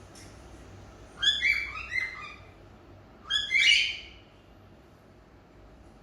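Cockatiels chirping: a quick run of several short calls about a second in, then a second burst of calls about two seconds later.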